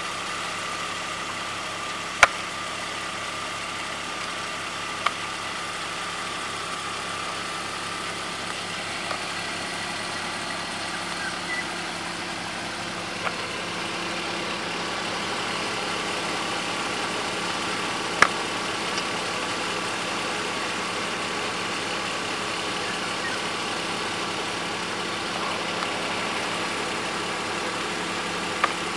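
BMW 320Ci E46's inline-six engine idling steadily, with a few brief sharp clicks.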